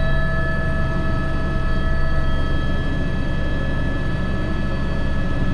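Airbus H125 (AS350 B3) helicopter in flight: the single turboshaft engine's steady whine, several high tones at once, over a constant low rumble from the rotor.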